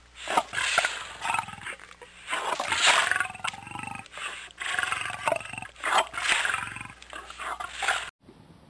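A big cat roaring and growling in a series of about six rough, deep calls. The sound cuts off suddenly near the end.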